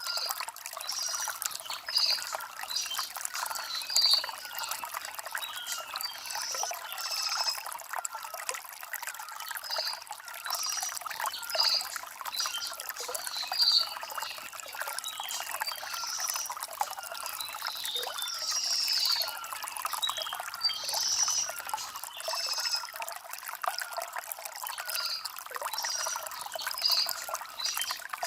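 Shallow stream water trickling and bubbling over river stones, a steady flow with small gurgles, with short high-pitched chirps recurring every second or two.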